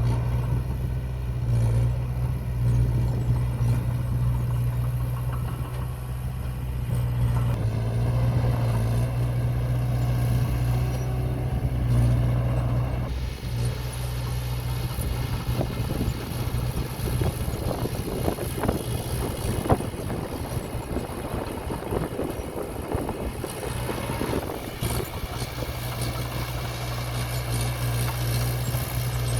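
Diesel engine of earthmoving equipment (mini bulldozer or dump truck) running steadily with a deep hum. About halfway through, a long stretch of irregular rattling and clanking joins it.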